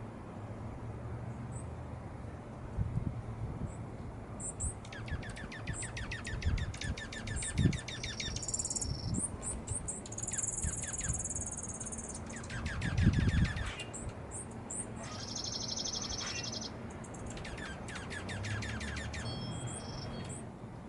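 Wild songbirds singing and calling: several rapid trills of quickly repeated notes, buzzy high notes and short high chirps. A few dull low thumps come in between.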